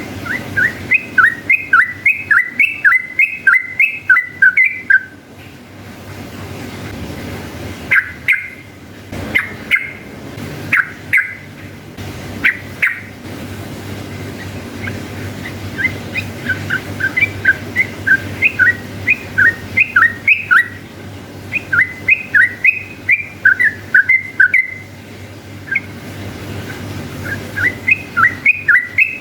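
Yellow-vented bulbul (trucukan) singing its long, rapid 'ropel' song: runs of quick, repeated whistled notes at about three a second, broken by a few spaced single notes in the middle, over a steady low hum.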